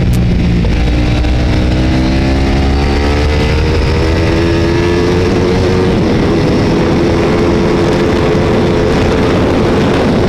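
Ducati 848 race bike's L-twin engine under hard acceleration: its pitch climbs over the first few seconds, then holds high and steady at speed.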